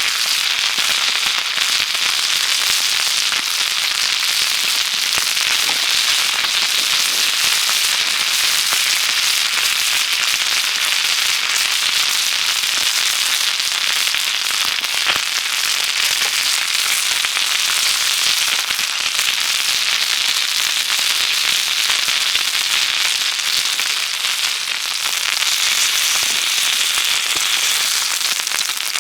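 Dense, steady crackling and popping from meat grilling over a wood campfire.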